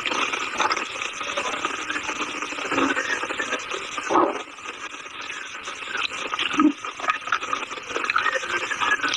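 Close-up crunching and chewing of dry chalk, a dense crackle of small brittle snaps with a few louder bites about four and six and a half seconds in.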